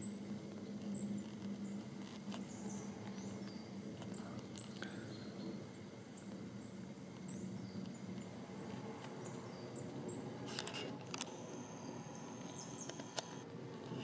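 Small forest birds calling with short, high chirps and brief sliding notes, scattered throughout. A few sharp clicks come in the last few seconds.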